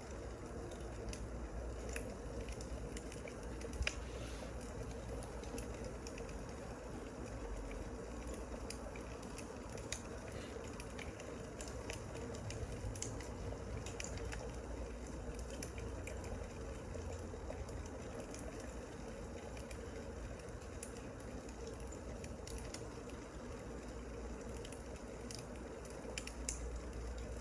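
Crackling wood fire: a steady hiss with scattered small pops and snaps.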